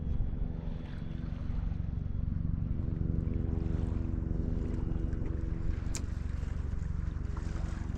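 Boat engine running steadily at low speed, with one sharp click about six seconds in.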